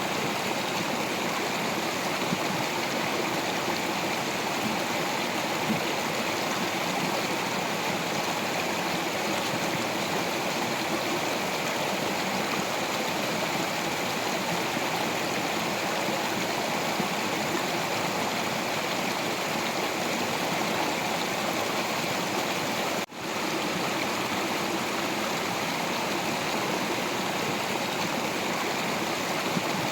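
Stream water flowing over rocks: a steady, even rushing and gurgling, with one momentary break about three-quarters of the way through.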